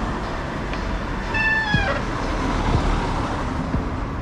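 Wind and road noise on the microphone of a moving bicycle, with street traffic rumbling. About a second and a half in comes a short high squeal lasting about half a second that dips in pitch as it ends.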